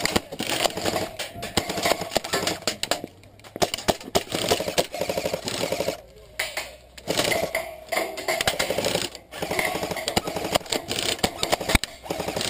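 Airsoft guns firing in long, rapid full-auto bursts, about four runs of fast clicking with short pauses between them.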